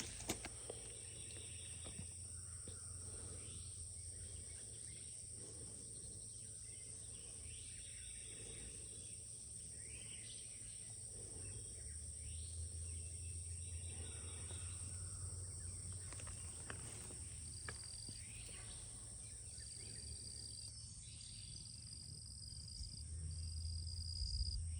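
Outdoor ambience: a steady high-pitched insect chorus with birds chirping now and then, over a low rumble.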